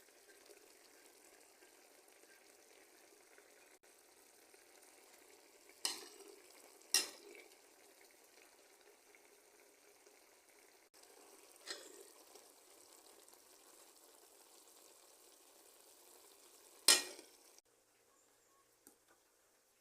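Steady, faint hiss broken by four sharp knocks, the loudest near the end.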